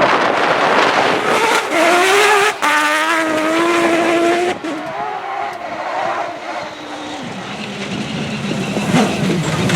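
Mazda rotary engine of a Peugeot 205 rally prototype at full throttle: the engine note climbs and holds for a couple of seconds, then breaks off and fades as the car goes away, building up again near the end.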